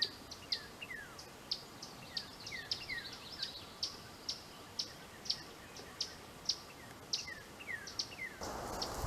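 Wild songbirds calling in spring woodland, a run of short high chirps and quick downward-sliding notes repeating every half second or so. Near the end a steady rushing noise comes in over them.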